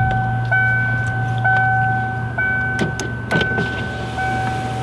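Motorhome dashboard warning chime beeping about once a second, over a steady low hum, on a dead chassis battery that is being charged. A few short clicks come about three seconds in.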